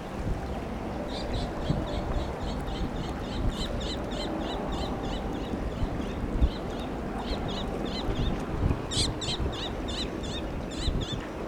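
A bird calling over and over, a fast series of short high chirps about three a second, with a short pause midway, over low wind rumble on the microphone.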